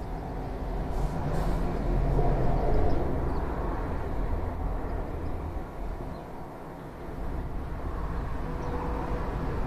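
Low rumble of passing vehicle traffic, swelling about two to three seconds in, easing off, then building again near the end with a faint engine hum.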